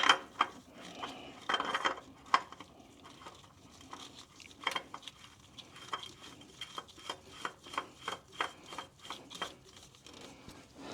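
Metal clicks, light knocks and scrapes as a new spin-on oil filter is handled and threaded onto the Nissan Titan's engine. The clicks come irregularly, some ringing briefly, with a quicker run of them in the second half.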